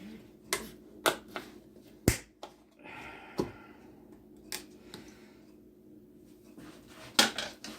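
A kitchen utensil clicking, knocking and briefly scraping against containers, a handful of separate sharp taps, as the set fat is skimmed off chilled chicken stock and knocked into a small container.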